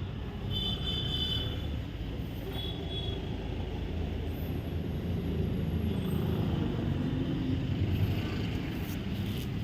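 Eicher 241 tractor's single-cylinder diesel engine running steadily, a constant low sound.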